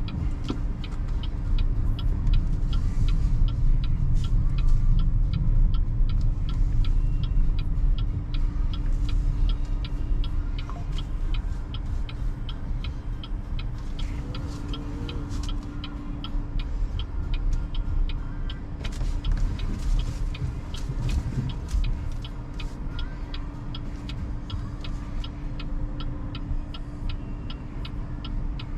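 BYD Seagull electric car driving: low road and tyre rumble with a steady hum, heard from inside the car. A regular, fast ticking runs through it.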